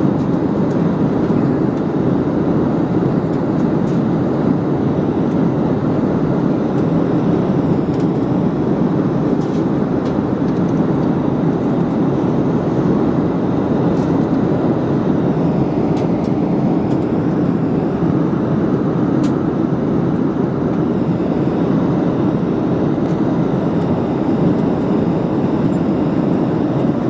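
Steady jet-airliner cabin noise: the engines and rushing air of a Boeing 737 heard from inside the cabin as it climbs after takeoff.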